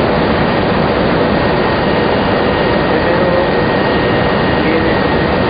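Steady loud roar of tobacco-processing plant machinery, with a faint high steady tone above it.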